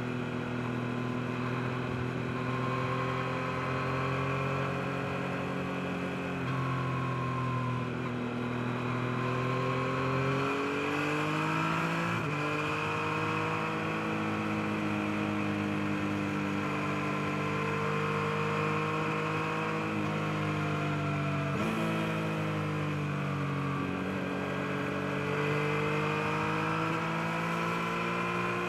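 Yamaha MT-09's 890 cc inline-three engine under way, its note rising and falling with the throttle, with a few sudden changes in pitch from gear changes.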